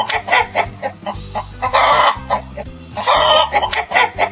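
Chicken clucking in short quick notes, with two longer, harsher calls about two and three seconds in, over steady background music.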